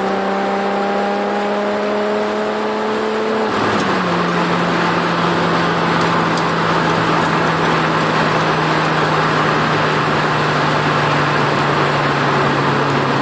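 Volkswagen VR6 engine running through a 3-inch exhaust with a header, a single silencer and no catalytic converter. Its note climbs slowly, then about three and a half seconds in drops to a lower pitch and holds steady, with more noise around it and a slightly higher level.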